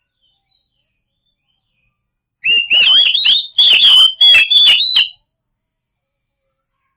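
Oriental magpie-robin (kacer) singing: one loud burst of about three seconds of sharp, rapidly changing whistled notes mixed with clicks, starting a couple of seconds in and stopping abruptly.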